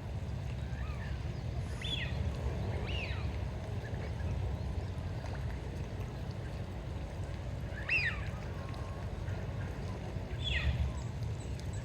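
A few short, high bird calls that sweep in pitch, over a steady low rumble.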